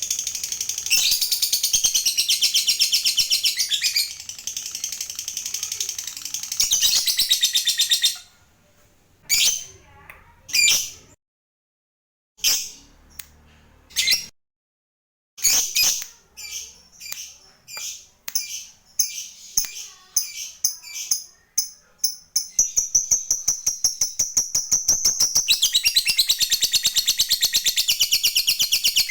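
Lovebird giving its long, rapid, high-pitched chattering trill ('ngekek'). About a third of the way in it breaks off into single sharp calls with brief dead gaps between them. The calls then come faster and faster until they run together into a continuous trill again for the last part.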